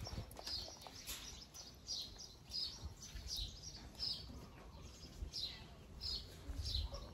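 A bird repeating a short, high, falling chirp over and over, roughly every half second, with a low rumble underneath.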